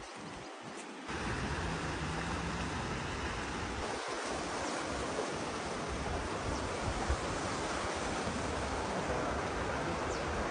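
Steady rushing wind noise on the microphone, which grows louder about a second in.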